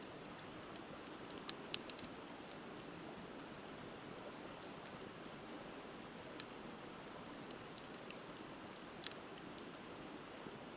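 Wood fire crackling, with a few sharp pops (the loudest a little under two seconds in), over the steady rush of a river.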